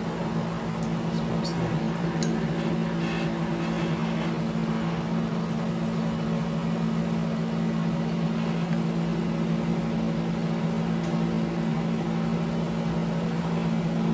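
A steady low mechanical hum with several pitches that stays the same throughout. In the first few seconds it carries a few faint scrapes and ticks of a rice scoop working through cooked rice.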